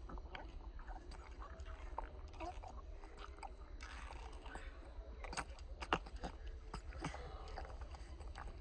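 Baby monkeys feeding on milk: a run of irregular wet smacks and clicks, with one sharper click about six seconds in, over a steady low hum.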